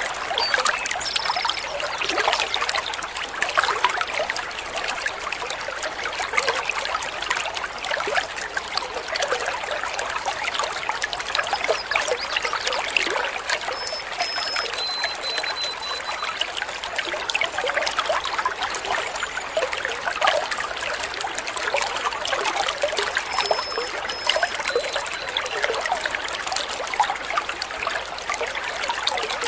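Water trickling and splashing steadily over stones in a small stream, with a few short, faint, high whistled notes now and then.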